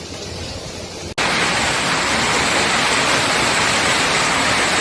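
Heavy rain and hail coming down in a dense, steady roar. It starts abruptly about a second in, after a quieter stretch of similar rain noise.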